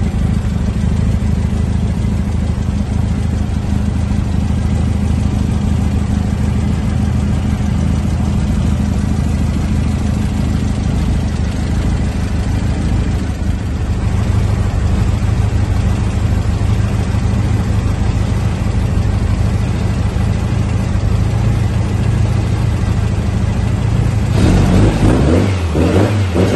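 Powerhaus-built 2332cc air-cooled VW flat-four Baja engine running steadily at idle through its stainless buggy exhaust. Near the end it is revved up and let fall back a couple of times.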